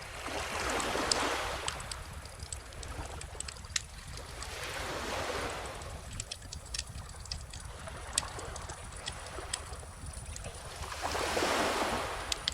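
Calm ocean waves washing onto the beach, swelling and fading three times, under a bonfire crackling with scattered sharp pops and snaps.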